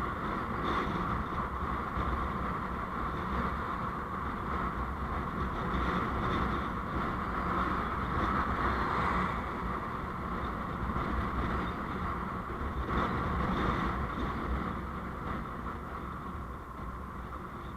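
Steady running noise of a road vehicle on the move, engine and road noise without breaks, easing off over the last few seconds.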